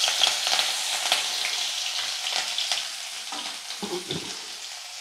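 Grated garlic, ginger and chopped green chillies sizzling and crackling in hot oil in a metal kadai, the sizzle easing a little toward the end.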